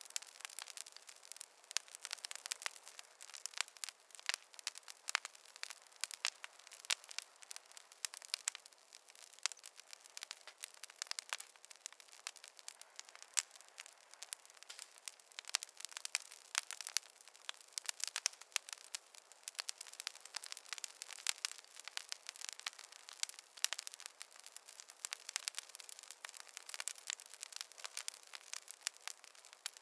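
Wood fire crackling in a fireplace: a dense, steady stream of small sharp pops and snaps, thin and without any low rumble.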